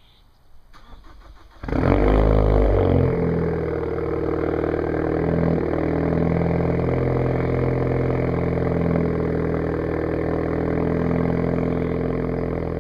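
2013 Ford Focus ST's 2.0-litre turbocharged four-cylinder engine cold-starting through a straight-piped 2.5-inch exhaust with the resonator and muffler removed. It catches about a second and a half in, revs up briefly, then settles into a steady idle.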